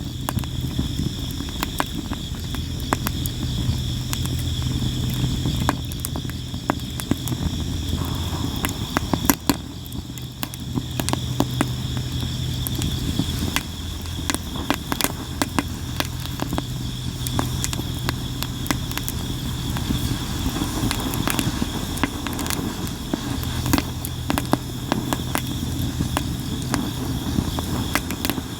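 Sawara (Japanese cypress) firewood burning, crackling and popping constantly with many sharp snaps, over a steady chorus of insects. A low rumble comes and goes underneath.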